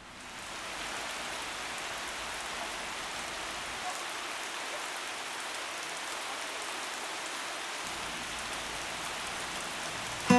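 Steady rain falling, fading in over the first second and then holding an even hiss.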